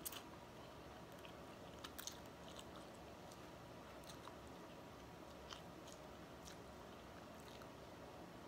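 Faint chewing of a mouthful of instant noodles, with scattered small mouth clicks and smacks.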